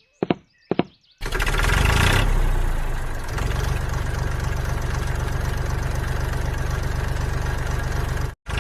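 A couple of sharp knocks, then a small tractor-style engine sound starts abruptly, loudest for its first second, and settles into a steady, fast-pulsing run. It cuts out for an instant near the end and picks up again.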